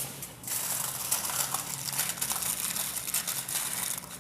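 Thin wrapping sheet crinkling and rustling as it is stretched and pressed over the tops of filled glasses to cover them, a steady run of small crackles.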